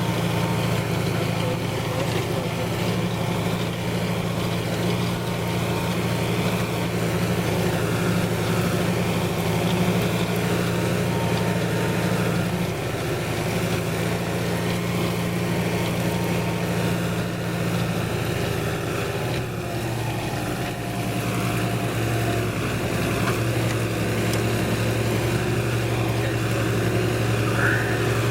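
Deutz-Fahr 150 MK3 tractor's diesel engine running steadily under load while pulling a five-furrow plough; the engine note shifts about twenty seconds in.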